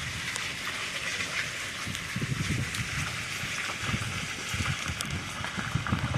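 Steady rushing noise of the flooded Saline River running high, with wind buffeting the microphone in uneven low gusts.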